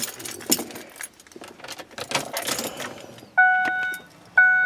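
Car keys jangling and clicking at the ignition, then two short electronic warning chimes from the car's dashboard about a second apart, just before a cold start.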